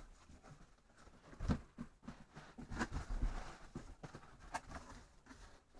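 Cardboard box and packaging being handled and opened: irregular rustling, scraping and small knocks, with one louder knock about a second and a half in.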